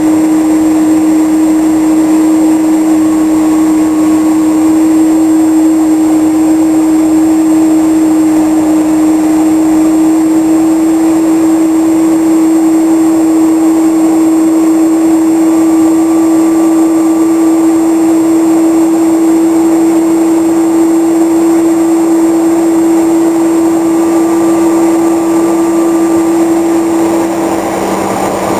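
Flight deck noise of a Vickers VC10 K4 tanker: a steady loud rush with a strong droning hum that rises very slightly in pitch.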